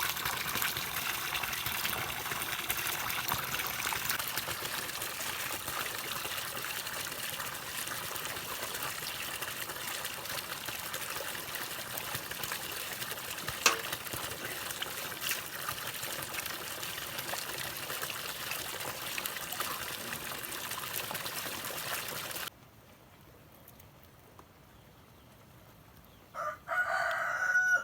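Steady trickling, running water that cuts off suddenly about three-quarters of the way through. Near the end a rooster crows once, loudly.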